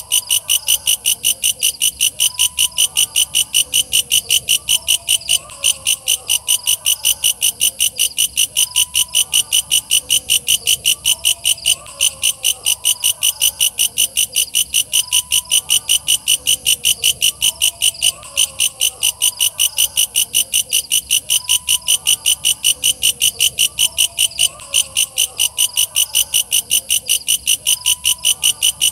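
Walang kecek (a katydid) calling: a loud, high, unbroken train of fast, evenly repeated chirps.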